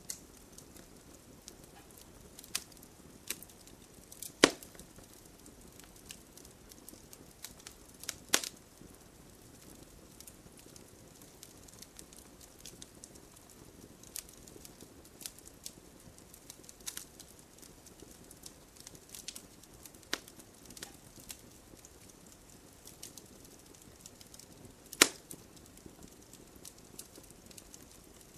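Wood fire crackling, with irregular small snaps over a low hiss and a few sharp pops, the loudest three about four, eight and twenty-five seconds in.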